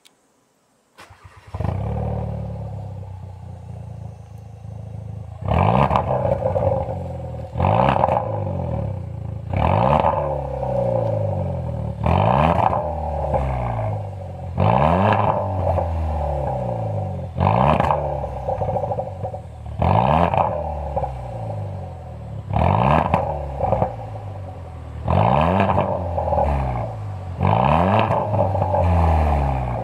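Second-generation Hyundai Veloster Turbo's 1.6-litre turbo four-cylinder, fitted with an aftermarket mid-high-tone muffler, started about a second in and idling. From about five seconds in it is revved in repeated throttle blips, roughly one every two seconds, each pitch rising then falling back to idle.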